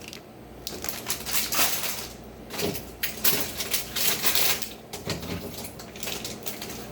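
Plastic food packages, such as bags of shredded cheese, crinkling and clicking as they are handled and taken out of a refrigerator, with light knocks of items being set down.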